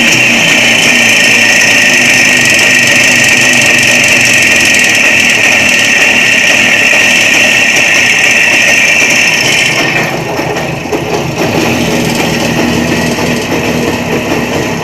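Jawa 360 two-stroke twin motorcycle engine running steadily at high revs with a high whine, which the owner finds strange. About ten seconds in, the revs drop and the sound turns rougher and quieter.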